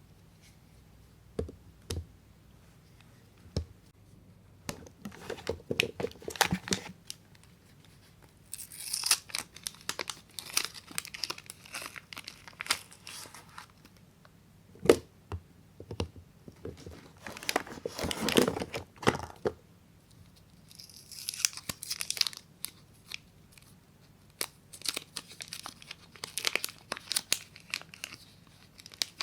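A soap wrapper being torn open and crinkled, in several bursts of tearing and crackling, with sharp single clicks and taps in between.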